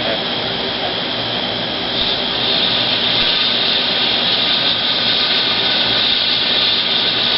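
Ground firework fountain hissing steadily as it sprays sparks, a loud even rushing hiss that swells slightly about two seconds in and holds.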